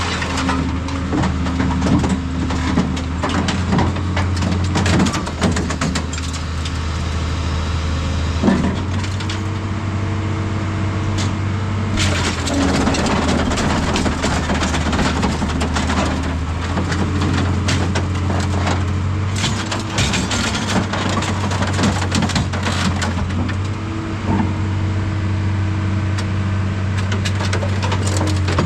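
Heavy scrap-yard machinery running with a steady low engine hum, while scrap metal crunches and cracks again and again.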